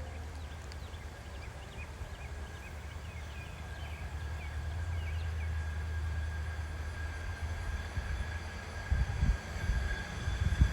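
Hi-rail truck approaching on the railroad track, a low rumble growing steadily louder, with a few low thumps near the end. Birds chirp over it in the first half.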